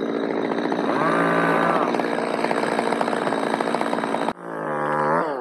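Chainsaw engine running, revved up twice: once about a second in and again near the end, with a sudden break in the sound just after four seconds.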